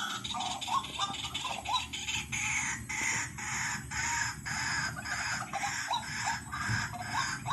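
White-breasted waterhen calling: a fast, unbroken series of short harsh notes, about three a second, each rising slightly in pitch. This is the kind of waterhen call played as a lure to draw the birds in.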